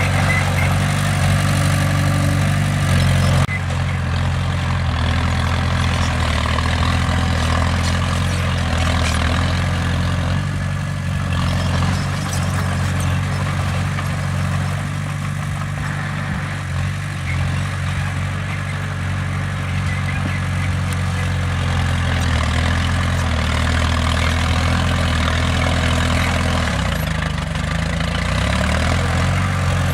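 Bulldozer's diesel engine running steadily, a low even drone; the sound shifts abruptly about three and a half seconds in.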